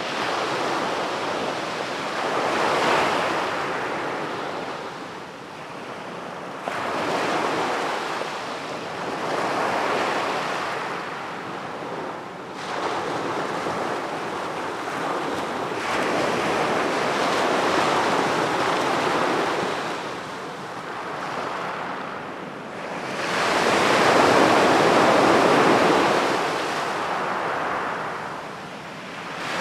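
Sea waves breaking and washing up the shore, swelling and fading every few seconds, the loudest one near the end.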